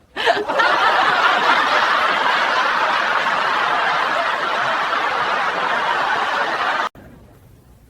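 Crowd laughter, a dense steady wash of many people laughing, which cuts off abruptly about seven seconds in like an edited laugh track.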